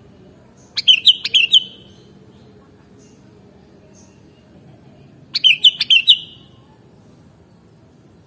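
Sooty-headed bulbul (kutilang) singing: two short phrases of four or five quick notes each, about four and a half seconds apart.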